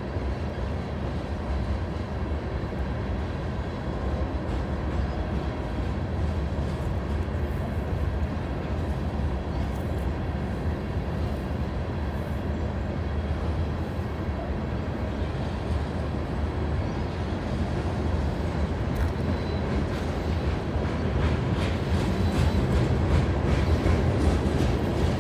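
A train rolling past at close range: a steady low rumble of wheels on the rails that grows louder near the end, with rapid clicking and clacking coming in over it.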